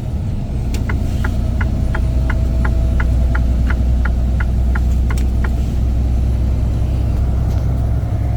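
Inside a semi-truck cab, the engine drones steadily while driving. A turn-signal indicator clicks about three times a second from about a second in until past the middle, then stops.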